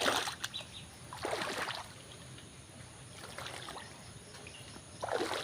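Standing floodwater sloshing and splashing in a few short, irregular bursts, with a low steady wash of water in between.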